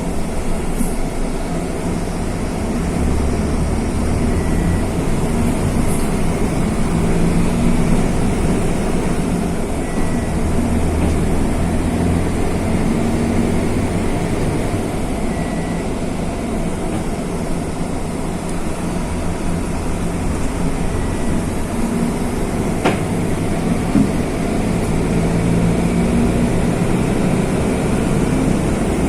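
Mercedes-Benz OF-1519 city bus's OM-924 LA four-cylinder turbo-diesel running under way, a steady low rumble that rises and falls a little in loudness. A faint short beep recurs about every five seconds, and there is one sharp knock about 23 seconds in.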